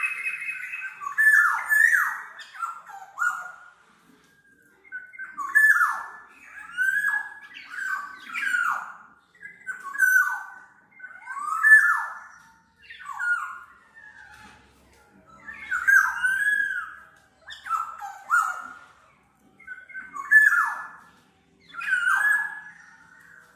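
Black-naped oriole (kepodang) singing: a run of fluty whistled notes, many dropping in pitch, about one a second, broken by a couple of short pauses.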